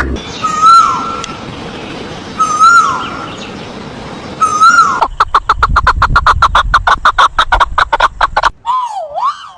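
Birds calling: three separate whistled calls about two seconds apart, each rising and then dropping, then a fast trill of rapidly repeated notes, and near the end a wavering call that swoops up and down.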